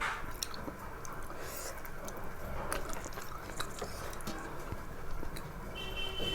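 A person chewing a mouthful of food close to the microphone: soft wet, squishy mouth sounds with small scattered clicks.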